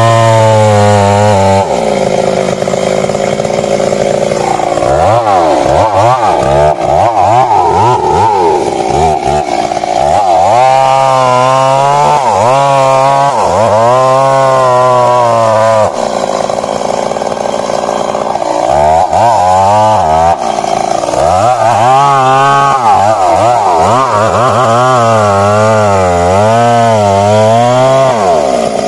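Stihl MS 382 two-stroke chainsaw running hard as it cuts into wood. Its engine pitch holds steady for about two seconds, then rises and falls repeatedly as the chain bites and the revs dip and recover.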